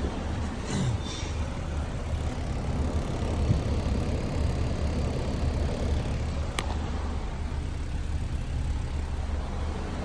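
Air-conditioning blower fan motor of a 2021 Renault Talisman running with a steady low hum and rush of air, with one sharp click about six and a half seconds in.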